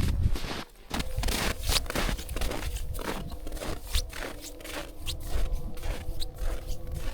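Irregular crunching and scraping of snow and ice, a dense run of short sharp crunches. Faint steady tones come in about halfway.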